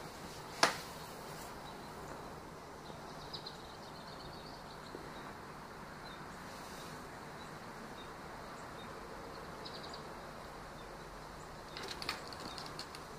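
Quiet steady background hiss with a few faint, short bird chirps. A single sharp click about half a second in, and a few soft clicks near the end.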